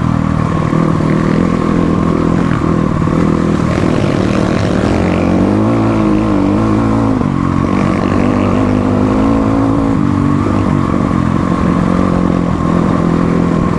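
Motorcycle engine running under way. Its pitch rises and falls a few times in the middle as the throttle is worked.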